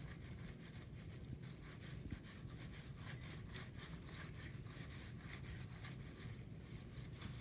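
Rolling pin being rolled back and forth over floured dough on a countertop: a faint, repeated rubbing and scraping.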